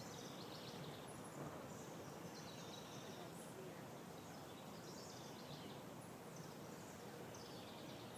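Faint small birds chirping now and then, short high calls and quick falling notes, over a steady low background hiss.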